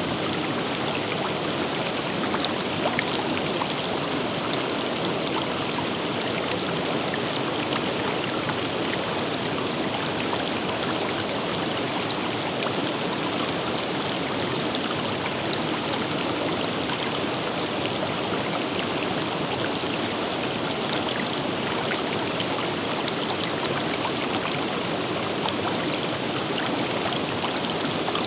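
River water running steadily over rocks, an even rushing with small splashes and trickles throughout.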